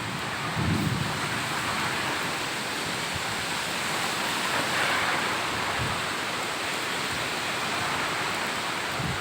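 Heavy rain falling steadily, an even hiss that swells slightly about halfway through.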